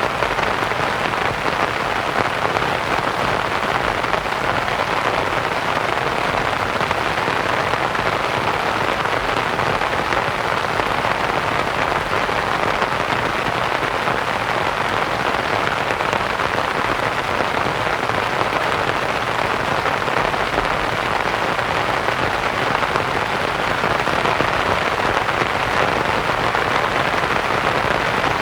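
Steady rain pattering on a canvas tent, mixed with soft white noise into a dense, even hiss.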